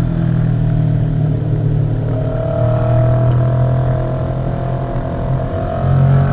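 A road vehicle's engine running steadily in traffic. A higher tone joins about two seconds in and rises slowly in pitch before fading near the end.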